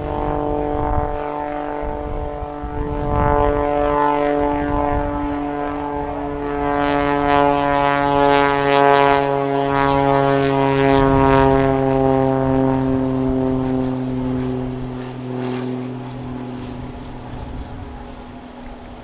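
Pitts Special aerobatic biplane's propeller engine droning, its pitch falling slowly throughout. It is loudest and harshest in the middle and fades toward the end.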